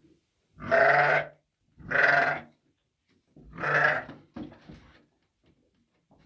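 Livestock bleating three times, each call about half a second to a second long, the first two a second apart and the third after a slightly longer gap, with fainter scattered sounds after the last call.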